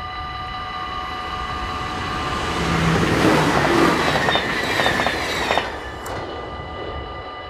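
Level-crossing bells ringing steadily while a passenger train passes at speed, rushing loudest from about two and a half seconds in, with its wheels clacking over the rail joints. The train noise cuts off sharply just before six seconds as the last car clears the crossing.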